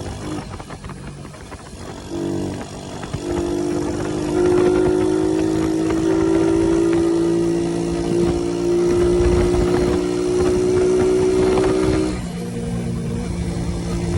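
Motorbike engine running steadily under throttle while riding, with a low uneven rumble underneath. The engine note falls about twelve seconds in as the throttle eases off.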